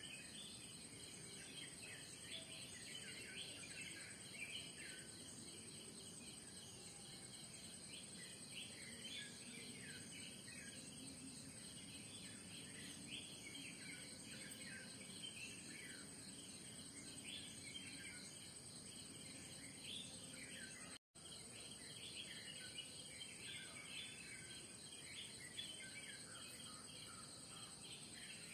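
Faint morning bird chorus: many small birds chirping and calling over a steady, high-pitched insect drone. The sound cuts out for an instant about three-quarters of the way through.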